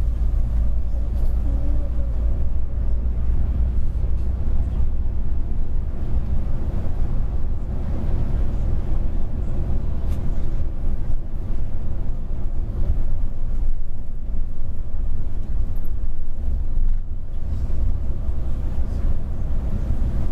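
Mercedes-Benz Travego coach under way: a steady low rumble of engine and road noise.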